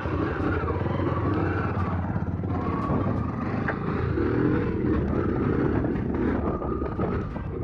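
Motorcycle engine running while the bike is ridden along, a steady stream of firing pulses. The bike has been cutting out, and the rider suspects the CDI ignition unit he installed that day.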